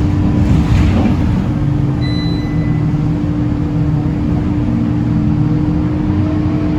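Scania K230UB city bus's five-cylinder diesel engine running under way, its pitch rising as it pulls. A brief hiss about half a second in, and a short high beep about two seconds in.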